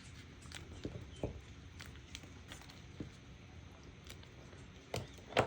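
Faint scattered light taps and clicks on a craft table, with two sharper, louder knocks about five seconds in.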